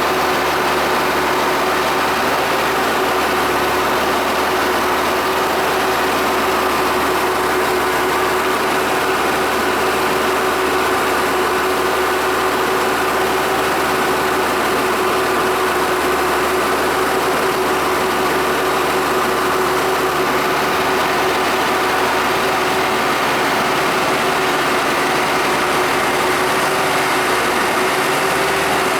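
Tractor engine running steadily, with a constant whining tone over it and no change in speed.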